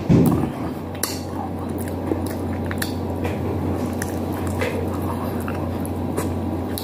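Close-miked wet chewing and mouth smacking of a person eating chicken by hand, with small clicks and squishes over a steady low hum. A louder low bump comes right at the start.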